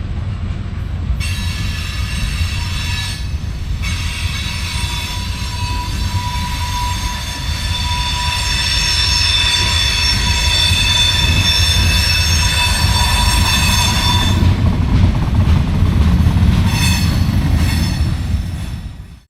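Freight train rolling past, steel wheels squealing on the rails over a heavy rumble that grows louder midway. The squeal comes in about a second in, holds for most of the passage, and returns briefly near the end before the sound cuts off abruptly.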